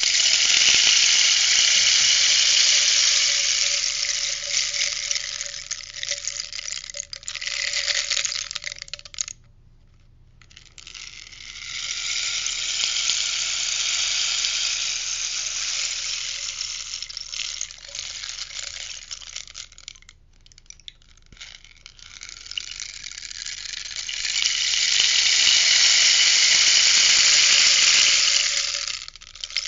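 Rainstick tipped three times. Each pass is a long cascading patter of falling pellets that swells and fades over about eight or nine seconds, with a short break between passes.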